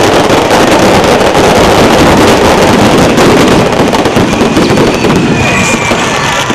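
A string of firecrackers going off in a dense, continuous rapid crackle of loud pops, set off for the lighting of the bonfire.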